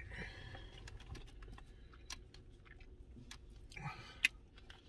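Close-up chewing of food, with scattered wet mouth clicks and smacks and a sharper click shortly before the end.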